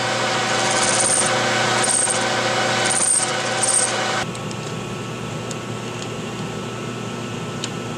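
Metal lathe running while a cutting tool trims the end of a chrome-moly steel tube, with a harsh cutting hiss and metallic scrapes. About four seconds in the cut stops and only the lathe's steady running hum remains.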